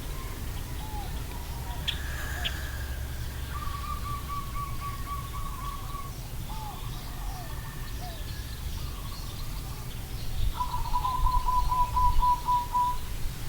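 Birds calling: two long, even trills, one starting about three and a half seconds in and another near the end, with short chirps in between.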